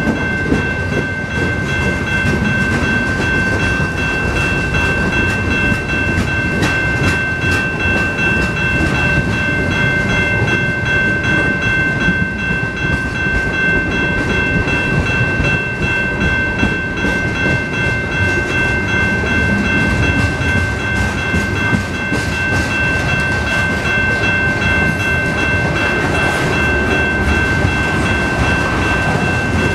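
Freight train cars rolling past at speed: a steady rumble of steel wheels on rail with frequent clicks over the rail joints, and a steady high-pitched ringing tone above it.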